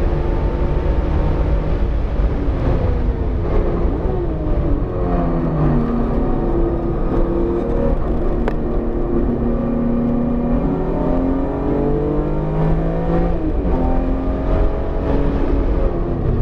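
BMW E46 M3's S54 straight-six, freshly rebuilt and still being broken in, under load on track: the engine pitch climbs and drops several times through gear changes and corners over a constant low road and wind rumble. There is one sharp click about eight and a half seconds in.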